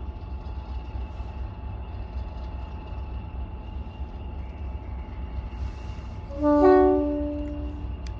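Heritage diesel locomotive running with a steady low rumble, then its two-tone horn sounds once about six seconds in, lasting about a second.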